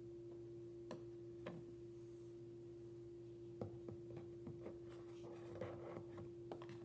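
Faint scattered clicks and taps of small objects being handled, denser in the second half, over a steady low electrical hum.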